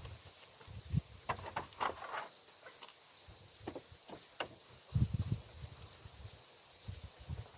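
Scattered light knocks, scrapes and rustles of hand work with building materials, with a cluster of dull low thuds about five seconds in.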